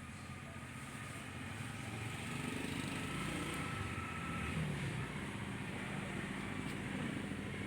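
A motor vehicle's engine running nearby, growing louder about two seconds in and then holding steady.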